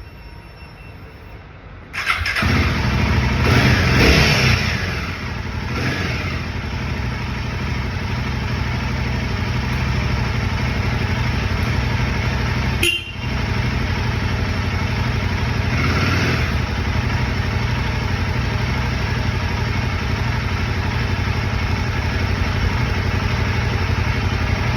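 Royal Enfield adventure motorcycle's single-cylinder engine starting about two seconds in, revved up once and blipped a couple of times, then idling steadily. A short click and momentary dip in the engine sound come about halfway through.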